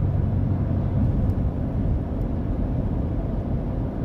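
Steady low road and engine rumble of a vehicle being driven, heard from inside the cabin.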